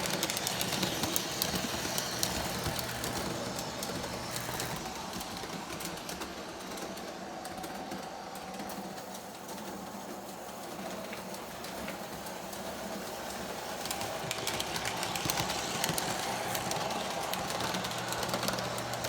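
O-gauge model train running on its track: a K-Line by Lionel NYC RS3 diesel locomotive with onboard diesel sound effects and a motor hum, pulling freight cars whose wheels click and rattle steadily over the rails. The train is louder near the start and end, as it passes close, and quieter in between.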